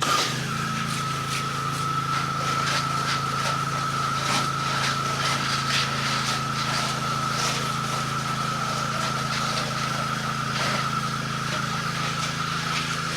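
Pressure washer in use: a steady engine hum with a high whine held on one pitch, and water spray hissing in short repeated sweeps.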